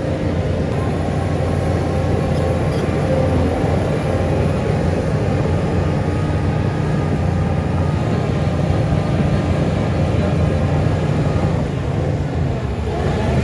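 Heavy diesel engine of earth-moving machinery running steadily under load, easing off briefly near the end and then picking up again.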